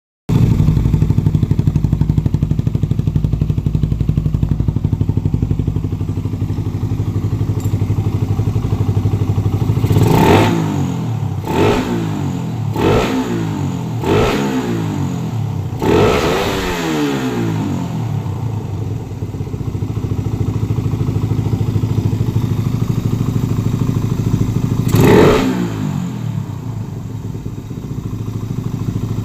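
Suzuki Satria FU motorcycle engine running through an aftermarket WRX GP5 low-noise exhaust, on a PWK 28 carburettor and BRT iMAX CDI. It idles steadily for about ten seconds, then is revved in a run of five quick throttle blips, the last held longer and falling back slowly. After a stretch of idle there is one more blip near the end.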